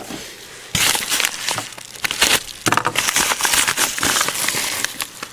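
Packaging being handled: crinkling and rustling with many small sharp clicks, starting about a second in.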